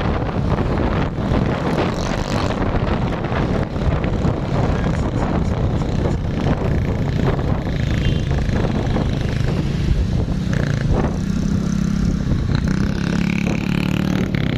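Heavy truck engines running and passing, with loud road and wind noise; a steadier engine drone comes in over the last few seconds.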